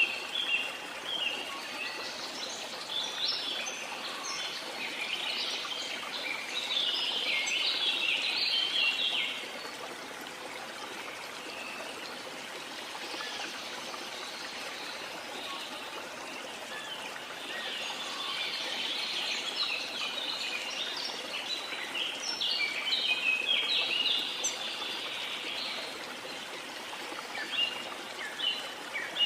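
Rainforest ambience: a steady hiss of falling or running water under many birds chirping and calling. The calls come in two dense bouts, in the first third and past the middle, with a few more near the end.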